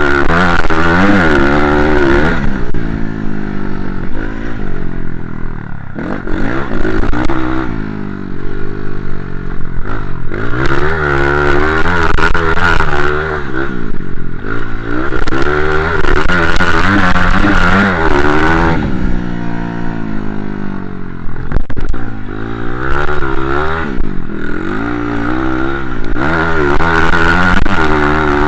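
Motocross bike engine revving hard and backing off again and again, its pitch climbing and dropping with the throttle as the bike is ridden around the track.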